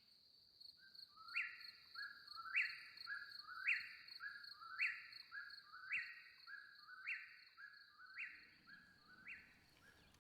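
A songbird singing the same short phrase about once a second, eight times over, each phrase a few lower notes with a higher falling note. A steady high-pitched buzz runs underneath.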